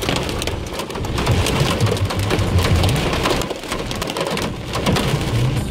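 Heavy rain and hail pelting a car's roof and windscreen, heard from inside the car: a dense, continuous patter of hard impacts over a low rumble.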